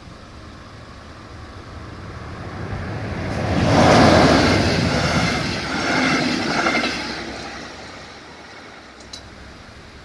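Red double-deck electric passenger train passing over a level crossing: the rumble and rush of wheels on rails swells to its loudest about four seconds in, peaks again around six seconds, and fades away by about eight seconds.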